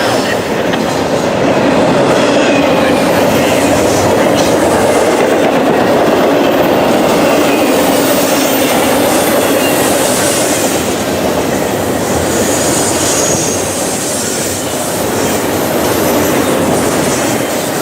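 Freight train cars rolling past in a steady loud rumble and rattle of steel wheels on rail, with faint high wheel squeals now and then.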